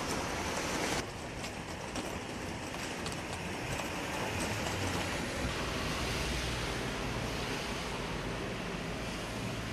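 Heavy rain falling: a steady rushing hiss, with an abrupt change about a second in and a low rumble joining from about halfway.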